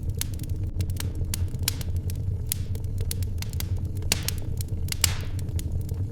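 Wood fire crackling in a fireplace: irregular pops and snaps over a steady low rumble, with a louder pop and a short hiss about five seconds in.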